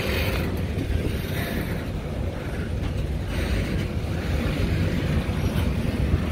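Steady low rumble of a train moving along the line, with wind buffeting the microphone.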